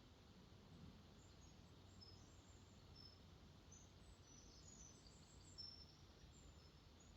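Faint birdsong: scattered short, high chirps from small birds over a quiet, steady low rush of water where a lake flows out into a river.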